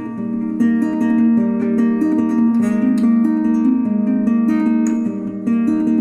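Background music played on plucked acoustic guitar, notes picked in a steady, flowing pattern.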